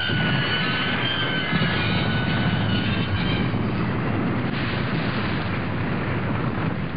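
A train passing with a heavy, steady rumble, with a high squeal over it for the first half that fades out.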